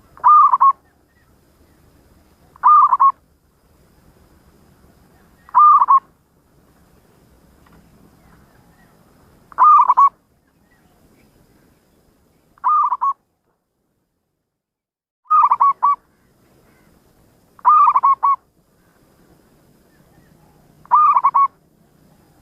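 Zebra dove (perkutut) singing: eight short cooing phrases, each a quick cluster of notes, repeated every few seconds.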